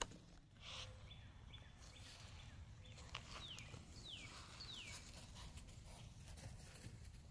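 Near silence outdoors with faint bird calls: a thin held high note, then three quick high whistles each sliding downward, a little over half a second apart, about three seconds in.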